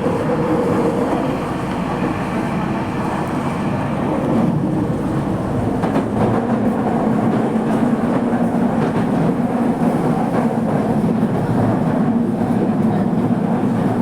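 Running noise inside a moving Toei Mita Line subway car: steady rumble of wheels on the rails with faint rail-joint clicks. A low steady hum comes in about five seconds in.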